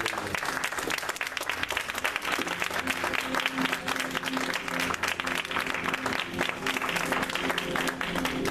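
A congregation clapping and applauding, with instrumental band music coming in under the applause about two and a half seconds in and holding steady pitched notes.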